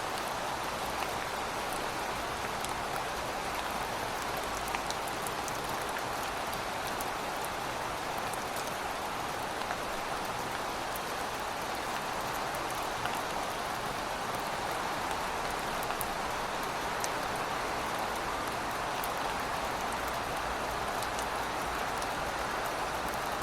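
Heavy rain falling steadily, a constant hiss with many scattered sharp drips and patters on top.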